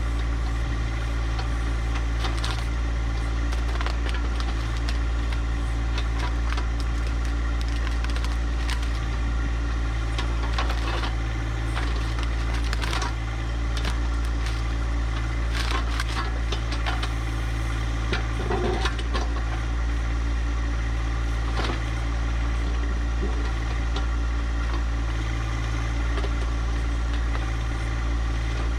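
John Deere 1025R compact tractor's three-cylinder diesel engine running steadily, with scattered short cracks, crunches and rattles of rock and debris over it.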